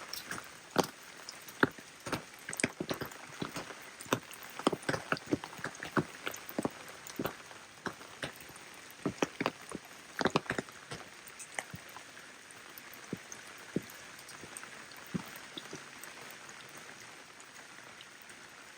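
Rain falling with a steady hiss and many irregular, close drops striking a surface, dense at first and thinning out after about ten seconds.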